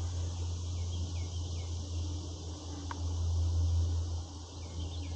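A fishing reel cranked at a steady pace to retrieve a spy bait, giving a steady low hum, with short runs of faint high chirps near the start and near the end.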